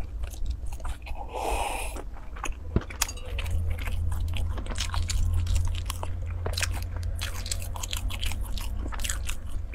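Close-miked mouth chewing: a dense run of small wet clicks and smacks as food is chewed with the lips closed, with a short breath about one and a half seconds in, over a steady low hum.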